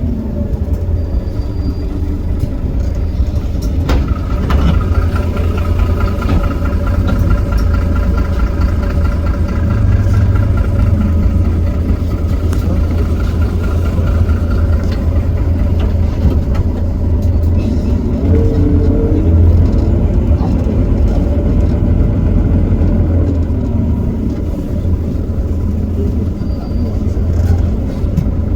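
Heuliez GX327 city bus's Iveco Cursor 8 six-cylinder diesel running steadily as the bus drives, a deep rumble with a faint whine over part of it and a single click about four seconds in.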